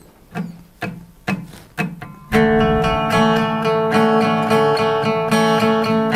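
Acoustic guitar starting a pop-rock song: four short, sharp percussive strokes, then a little over two seconds in it breaks into steadily strummed, ringing chords.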